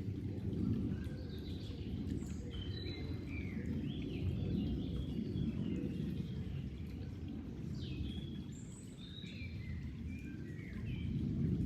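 Flowing water making a steady low rush that swells and eases, with several small birds chirping in short, quick calls above it.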